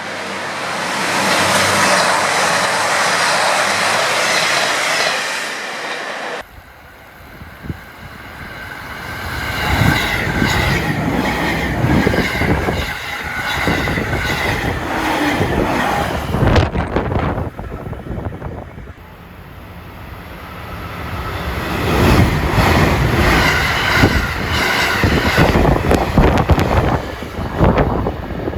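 JR Hokkaido trains passing at speed on snowy track: a steady rush of noise, then, after an abrupt cut about six seconds in, wheels clattering over the rails, the level swelling and fading as trains go by.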